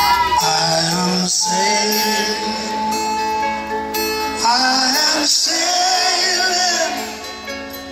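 Live concert music: singing over guitar and band accompaniment, as heard from the audience.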